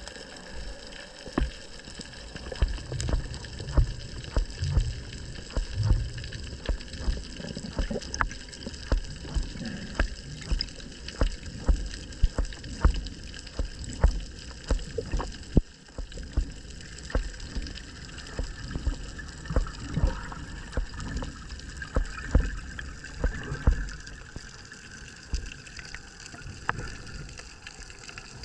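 Water sloshing and gurgling, broken by irregular low knocks and slaps about once or twice a second.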